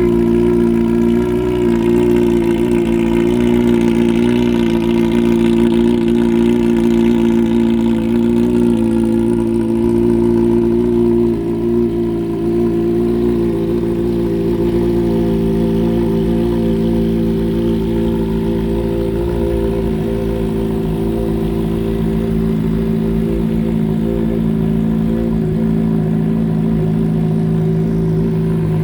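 2015 Honda CBR600's inline-four engine running steadily at a constant speed through a Toce full aftermarket exhaust, with a brief dip about eleven seconds in.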